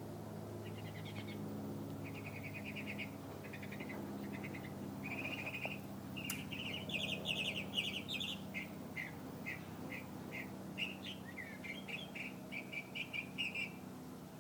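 A single songbird singing a long, varied song: buzzy trills and quick chattering phrases, loudest about halfway through, then a run of separate sharp notes and more trills near the end. A steady low hum runs underneath.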